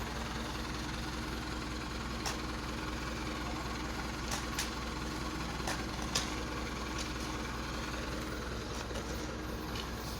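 Truck engine idling steadily, with a few short sharp clicks or knocks between about two and six seconds in.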